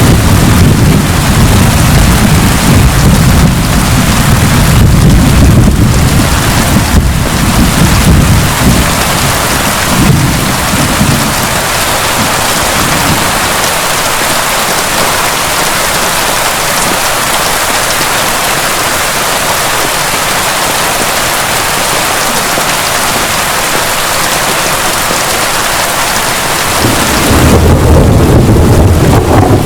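Heavy rain pouring steadily, with a long roll of thunder rumbling through the first ten seconds or so and dying away. A fresh rumble of thunder starts near the end.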